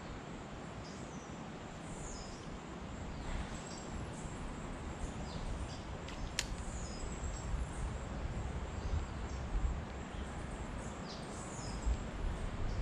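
Small birds chirping now and then over a steady outdoor background hiss and low rumble, with one sharp click about halfway through.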